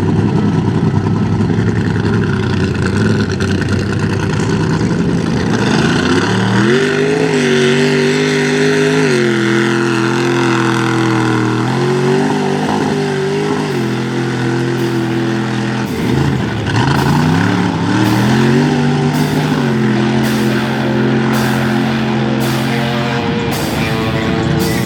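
A mud-bog truck engine revving hard several times, its pitch climbing and holding, then falling back before climbing again. Rock music with a steady beat comes in over the second half.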